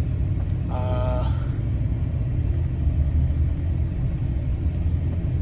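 Steady low rumble of a car's road and engine noise inside the cabin while driving. About a second in, a short hummed voice sound.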